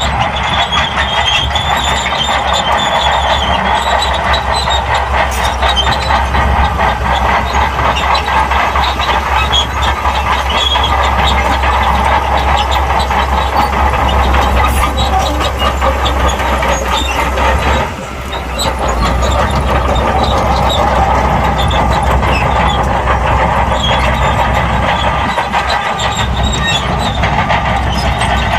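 SHANTUI crawler bulldozer working: its diesel engine runs steadily under load while the steel tracks clatter and squeal. The level dips briefly about two-thirds of the way through, then picks up again.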